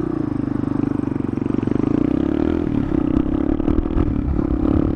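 CPI GRX250 motorcycle engine running steadily, its pitch dipping briefly a little over two seconds in, with some rattly clatter later on.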